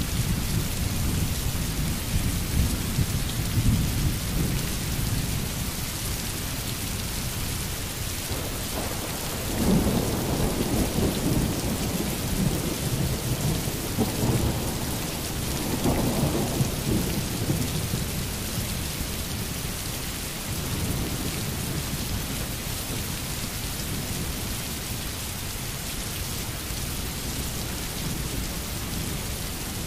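Steady rain hissing, with thunder rumbling low at the start and rolling again for several seconds in the middle.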